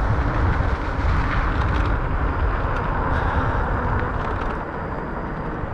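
Steady wind and road rush from riding an electric fat-tire bike, picked up by an action camera's microphone; slightly quieter near the end.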